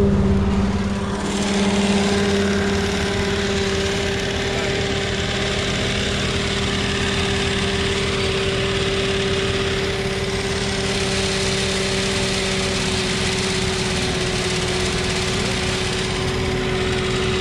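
Tow vehicle's engine held at steady revs while pulling a paraglider up on a winch line, with a steady whine over a rushing noise.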